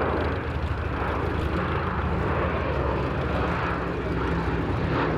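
The four Wright R-1820 Cyclone radial engines of a Boeing B-17G Flying Fortress running steadily in flight, a loud, even, low engine note.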